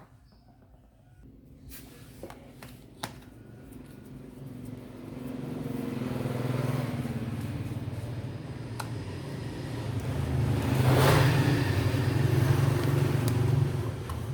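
A motor vehicle's engine passing close by in the street, building up from faint to its loudest at about eleven seconds and dropping away near the end. A few light clicks come in the first three seconds.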